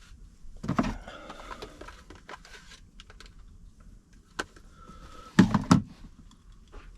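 Clicks, knocks and rustling of things being handled in a small enclosed space, with a burst of knocks about a second in and a louder cluster of knocks about five and a half seconds in.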